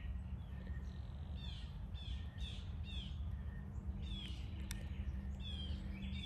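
Songbird chirping: short calls that fall in pitch, about two a second for a couple of seconds, then a few more scattered ones. Under it a steady low hum, the loudest thing present.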